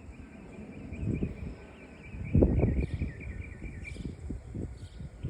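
A bird chirping in a quick, steady run of short high notes, over an uneven low rumble that swells loudest about two and a half seconds in.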